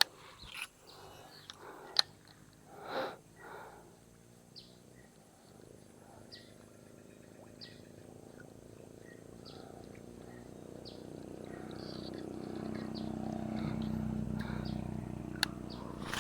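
Small birds chirping in short calls, with a sharp click about two seconds in. A low droning hum builds from about ten seconds in, peaks near fourteen seconds and then fades.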